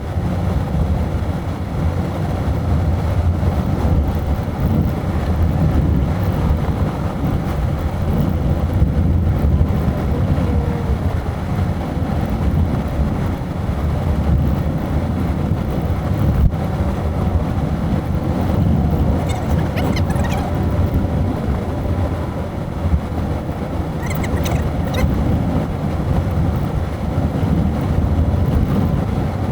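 Steady low rumble of a car's road and engine noise while driving, with two brief faint high squeaks about two-thirds of the way through.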